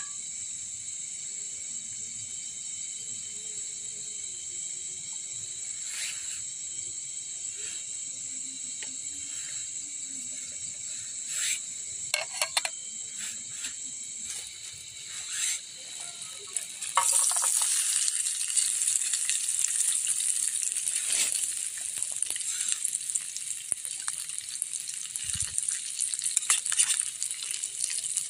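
Steady high-pitched drone of forest insects, with a few clicks and knocks of cookware partway through. About two-thirds of the way in, loud sizzling starts as ingredients begin frying in hot oil in a pan.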